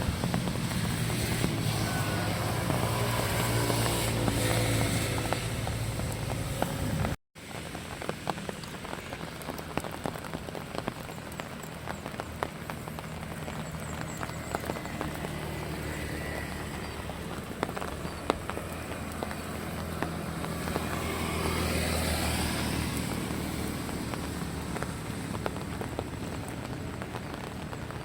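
Rain pattering steadily on surfaces. A vehicle engine runs close by for the first several seconds, then the sound cuts out abruptly. After that, another vehicle passes on the wet road about three-quarters of the way in, swelling and fading.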